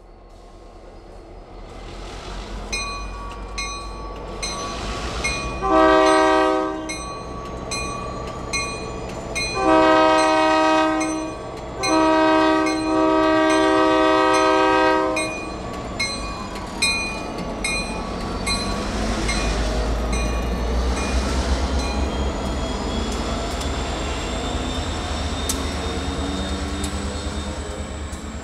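A diesel freight train passing close by: the locomotives sound a multi-note air horn (one short blast, then two longer ones) while a bell rings about three times a second. The freight cars then rumble and clatter past, with a thin wheel squeal near the end.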